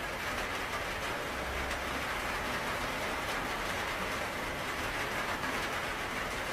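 Steady rain falling: a dense, even hiss with the patter of individual drops.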